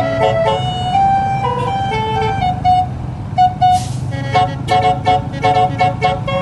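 A melody of short, quick notes over the steady low drone of a truck engine, with a brief hiss about three and a half seconds in.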